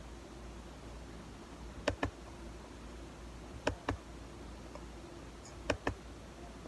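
Mouth sounds of cornstarch being chewed: three pairs of short, sharp clicks about two seconds apart, over a low steady hum.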